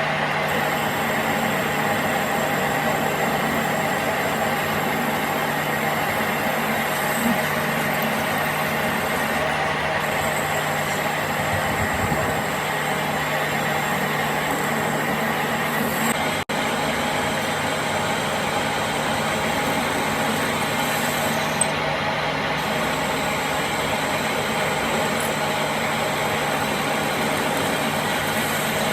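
A workshop machine's motor running steadily, with a constant hum and a whine over a rushing noise that drops out briefly about halfway through.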